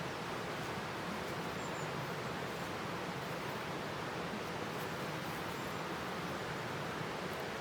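Steady, even rushing noise with no distinct events, and a faint, very brief high chirp about two seconds in.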